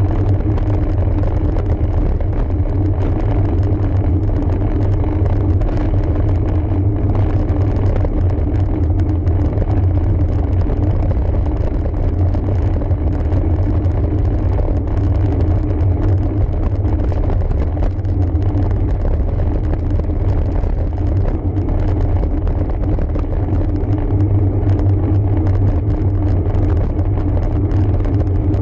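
Steady low rumble of wind and road noise while riding a road bike up a climb, with no breaks or sudden sounds.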